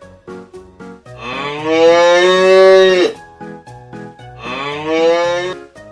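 A cow mooing twice: a long moo of about two seconds that rises and then holds, followed by a second, slightly shorter and quieter moo, over light background music.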